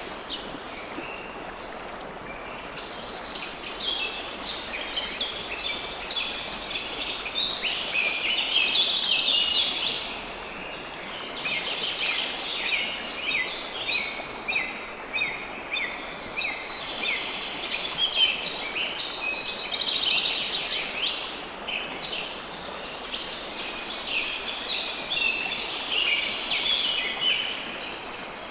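River water flowing steadily, with many small birds chirping over it in busy spells that build and fade.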